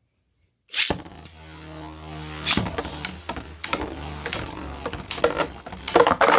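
3D-printed Beyblade burst tops launched into a stadium, starting suddenly about a second in, then spinning and clashing. A steady hum from the spinning tops runs under repeated sharp clacks as they collide, thickest and loudest near the end.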